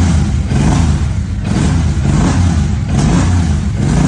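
Suzuki M109R's freshly rebuilt 1783 cc V-twin engine running just after a first-try start, rising and falling in repeated revs about once a second. It sounds aggressive and healthy, with no rattling.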